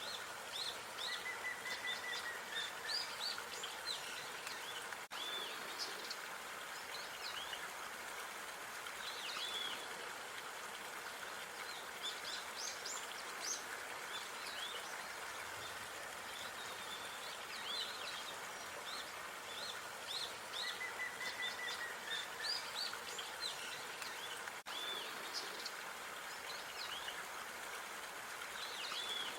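Park ambience: small songbirds chirping and calling in short, quick notes, with now and then a brief trill, over a steady background hiss. The same stretch of calls recurs about twenty seconds later, with a brief dropout at the loop point.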